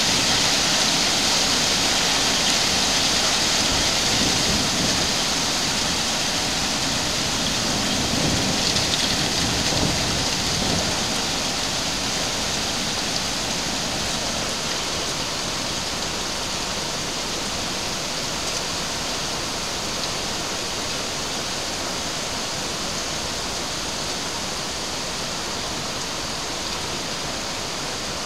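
Heavy rain pouring down in a steady, dense hiss that gradually eases. There is a low rumble about 4 to 11 seconds in.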